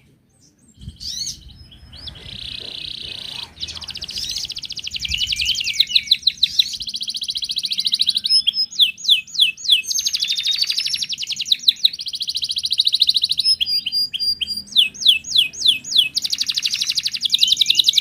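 Canary singing a long, unbroken song of fast trills and rolls, starting about a second in, with runs of quick down-slurred whistled notes.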